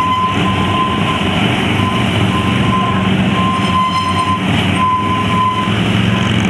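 Several police motorcycles riding a slow-speed drill course, their engines running with a steady low rumble. A thin high tone keeps cutting in and out over it.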